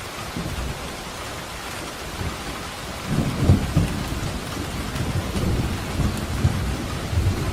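Steady rain hissing, with thunder rumbling underneath: a low rumble starts faintly about half a second in and swells louder from about three seconds in.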